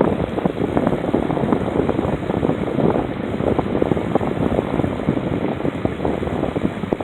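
Wind rushing over the microphone and tyre noise from a moving electric trike, a steady loud rumble full of small crackles.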